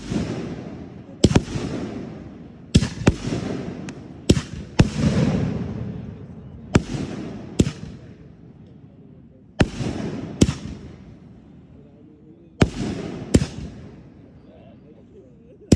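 Aerial firework shells bursting in an irregular series, about a dozen sharp bangs, some in quick pairs, each trailing off in a rumble over a second or two.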